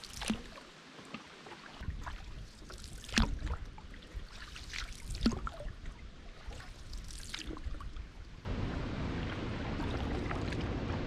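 Water splashing and trickling in a few separate strokes over a quiet background, then a steady rushing noise from about eight seconds in.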